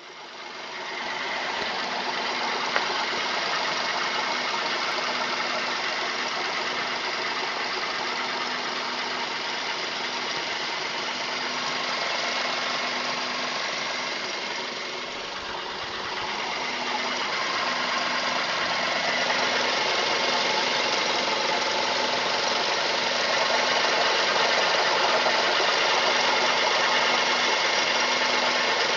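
Mazda 3 engine running with a knocking noise that the owner cannot identify. The sound fades up over the first second or two and dips briefly about halfway through.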